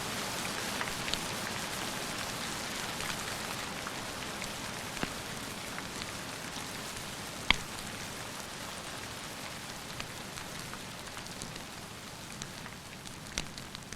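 Steady rain falling, slowly growing quieter, with a few scattered sharp pops; the loudest comes about halfway through.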